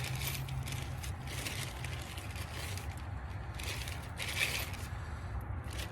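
Rustling and scraping handling noise of small parts and hardware being gathered, in three stretches of about a second each, over a steady low hum.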